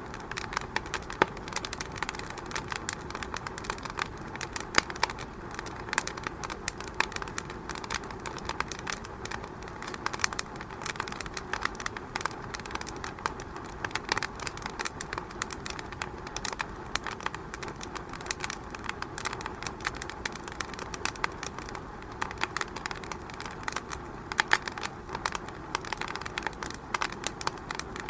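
Fire in a fireplace crackling, with many irregular pops and snaps over a steady low hiss.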